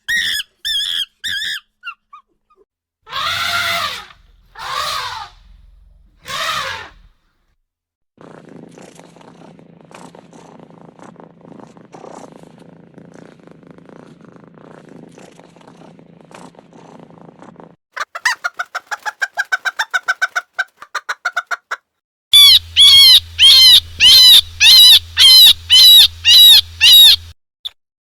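A sequence of separate animal calls, mostly bird calls. It opens with short repeated chirps, then three loud calls, then a quieter rustling stretch and rapid chattering. Near the end comes a run of about ten loud, high calls in quick succession.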